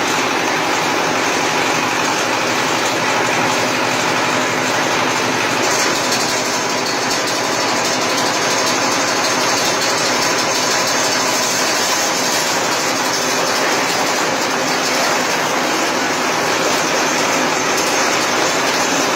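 Grass and compost chopping machine running, a loud steady mechanical noise that keeps an even level throughout.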